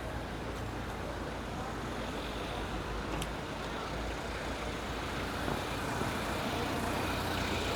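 Road traffic noise: a steady hum of passing cars, growing slightly louder in the second half.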